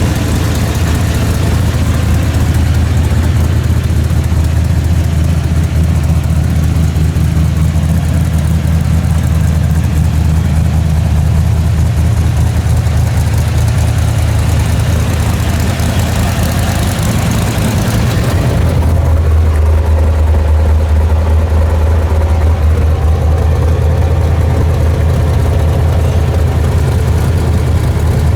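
The black truck's engine running steadily on the road, with a hiss over it. About two-thirds of the way through, the hiss drops away and the low engine note grows stronger.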